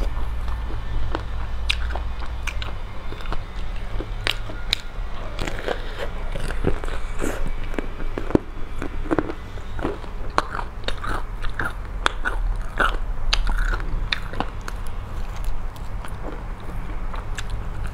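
Close-up biting and chewing of crispy fried chicken, with many sharp crackles from the crunchy breaded coating, over a steady low hum.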